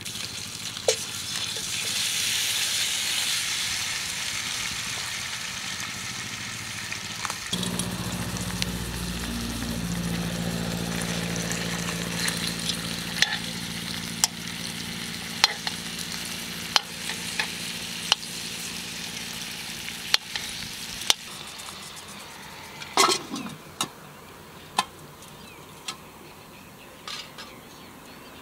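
Chicken wings sizzling as they go into a hot cast-iron Dutch oven, loudest in the first few seconds and then settling into a steady frying hiss that slowly fades. Metal tongs click against the pot, and a louder metal clank comes about two-thirds of the way through.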